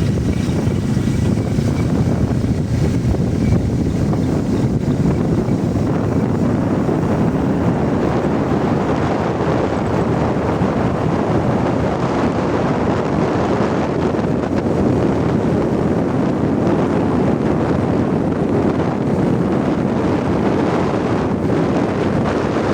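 Steady wind rushing over the microphone, with a dull rumble as from a moving vehicle.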